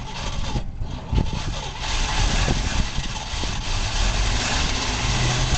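Old water truck's engine being started after sitting for over five years, running roughly with a low rumble. About two seconds in it gets louder and harsher, then cuts off suddenly near the end.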